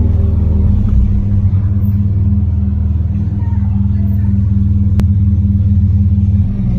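Mazda RX-7 FD's 13B twin-turbo rotary engine running steadily while the car is driven, a deep even drone that changes slightly about six and a half seconds in.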